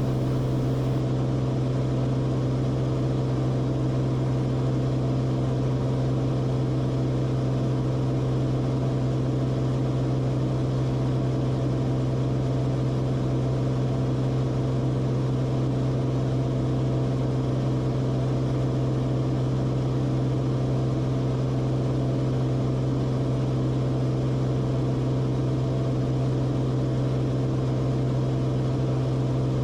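Steady drone of the Cessna Corvalis TTX's turbocharged six-cylinder Continental engine and propeller running at a constant power setting, with one strong low hum that holds level.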